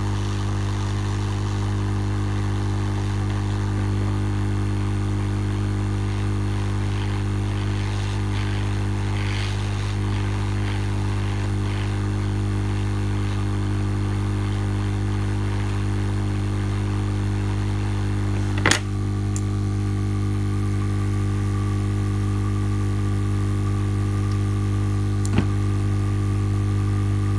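Lukey 852D+ hot air rework station running, a steady mains-frequency hum with the faint hiss of its blowing air. Two sharp clicks, about 19 s and 25 s in.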